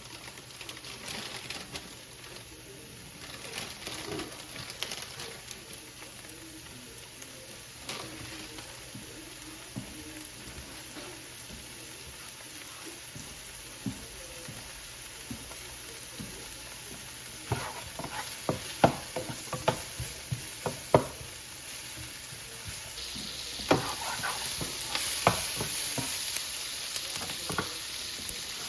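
Food sizzling in a pan with a steady hiss, and a run of sharp taps and clicks from a utensil past the middle. The sizzle grows louder and brighter near the end.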